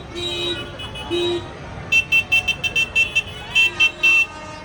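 Tractor horns tooting: a low horn sounds twice in short blasts, then a high-pitched horn gives a rapid run of short toots, about five or six a second, ending with two longer ones.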